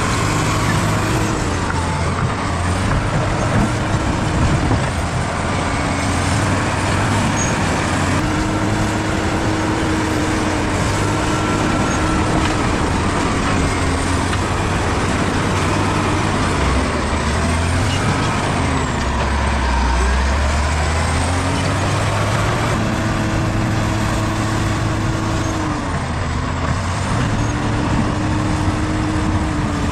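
Bulldozer's diesel engine running hard and continuously, its pitch rising and falling as the load changes, with the engine speed dropping and recovering about two-thirds of the way through.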